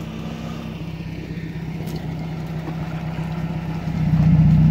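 Off-road 4x4 engine running steadily, growing louder about four seconds in.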